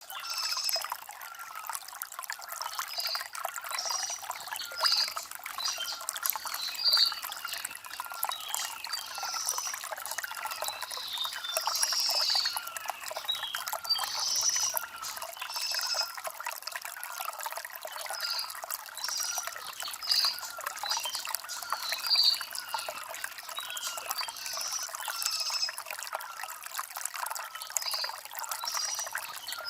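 Shallow stream water trickling and babbling over river stones: a light, uneven burble with little low rumble.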